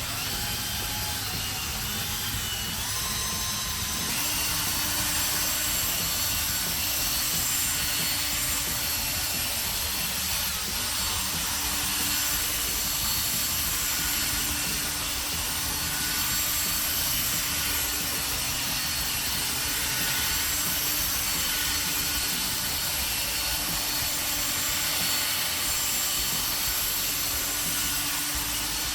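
Electric drill spinning a polishing pad loaded with polishing compound against a plastic headlight lens, the final polishing stage of a headlight restoration. The drill's pitch rises over the first few seconds, then it runs steadily.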